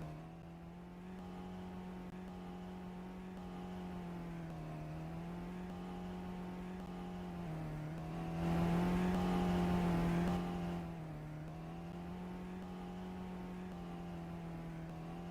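FSO Polonez engine running while the car is driven, its note rising and falling gently with the throttle. It gets louder under acceleration for a couple of seconds past the middle, then settles back.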